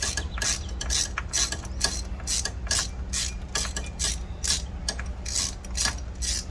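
Hand socket ratchet clicking in short, even bursts, about three a second, as it is worked back and forth to unscrew a spark plug.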